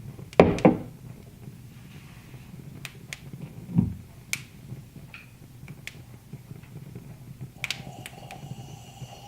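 Wood fire crackling in a fireplace, with scattered sharp pops. Two loud knocks about half a second in and a duller knock near the middle, and a faint ringing tone near the end.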